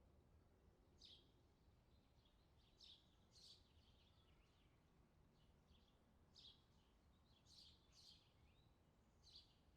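Faint birds chirping: about seven short, high chirps scattered through, over a low, steady background noise.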